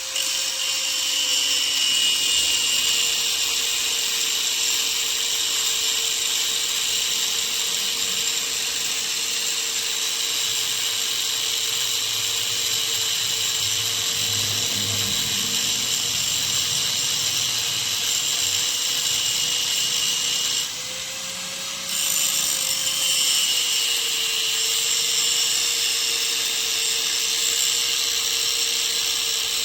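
Angle grinder cutting and grinding steel, with a steady motor whine under a harsh hiss of the disc on the metal. The hiss drops out for about a second near two-thirds of the way through, as the grinder comes off the work and its whine rises slightly, then the cut resumes.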